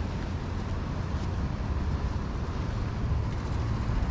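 Steady wind noise on the microphone with a low rumble underneath, even throughout.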